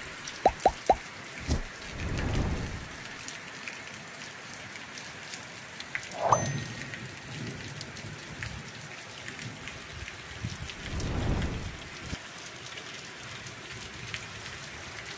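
Steady rain falling, with two low rumbles of thunder, about two seconds in and again about eleven seconds in. Three short, sharp chirps come just after the start, and a brief call about six seconds in.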